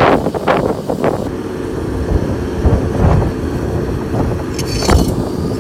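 Strong wind buffeting the microphone, a loud, uneven low rumble, with a few short knocks and a brief hiss near the end.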